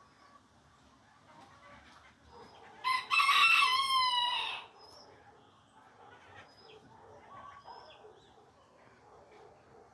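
A rooster crowing once, a long call lasting under two seconds that drops in pitch at the end, with faint small bird chirps around it.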